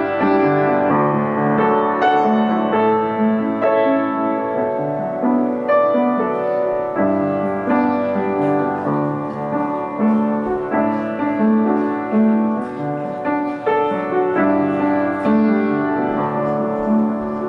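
Piano music: a steady run of sustained notes and chords.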